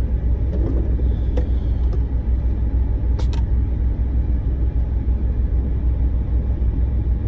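Steady low rumble of a truck's engine running, heard inside the cab, with a few light clicks from cooking utensils, the clearest a pair about three seconds in.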